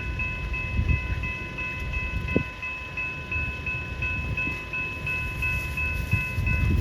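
Level crossing warning bell ringing steadily, a quick repeated ding about three times a second, over the low rumble of a passing train.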